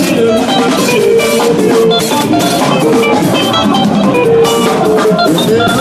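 Live band music with drum kit and guitar playing a steady, busy rhythm.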